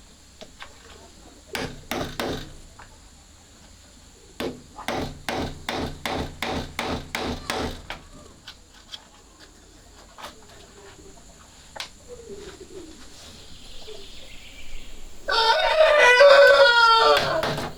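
Two runs of evenly spaced knocks, about three a second, in the first half. Near the end a rooster crows once, the loudest sound.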